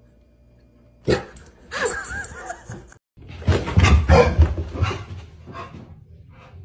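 A dog barking and vocalizing in a series of short, loud bursts that taper off toward the end.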